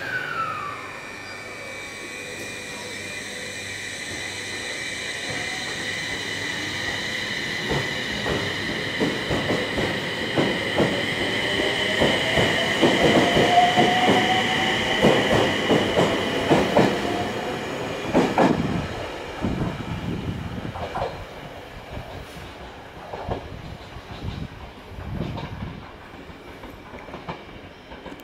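E721-series electric train pulling out of a station: a high electric motor whine rising in pitch as it gathers speed, with wheels clacking over rail joints. It grows louder as the cars pass and fades off in the second half.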